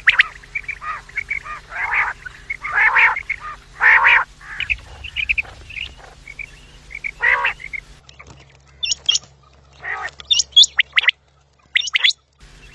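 Quail calling: repeated harsh, raspy calls. About eight seconds in, the recording switches to quicker, higher-pitched chirps.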